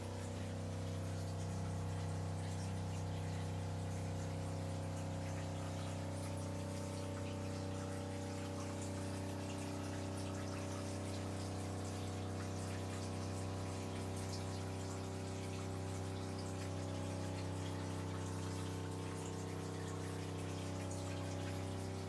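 A machine running steadily: an even, low hum with several steady tones over it and a hissing rush on top.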